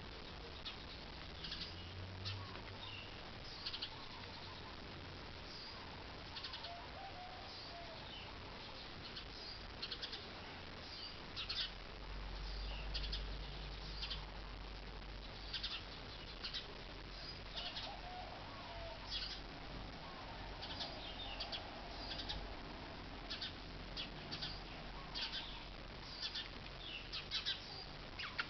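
Small birds chirping: many short, high chirps at irregular intervals, with a few lower warbling notes. A low rumble joins in a little under halfway through.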